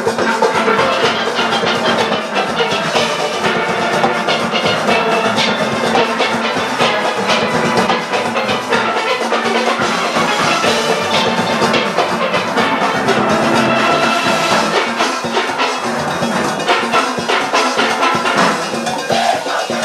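A large steelband playing at full strength: many steelpans sounding a fast melody and chords, driven by drums and rhythm-section percussion.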